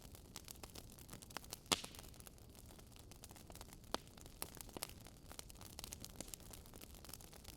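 Wood fire crackling: scattered sharp pops and snaps over a faint hiss, the loudest pop a little under two seconds in.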